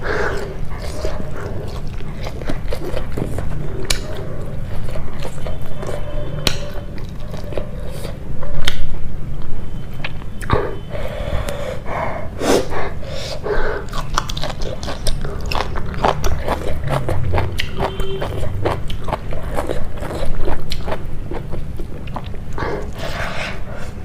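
Close-miked chewing of a mouthful of rice and curry: many short mouth clicks and smacks, with a few louder stretches of chewing.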